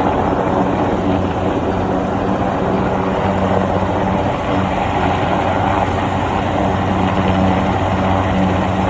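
Helicopter running steadily, a constant engine drone with a low hum and rotor noise.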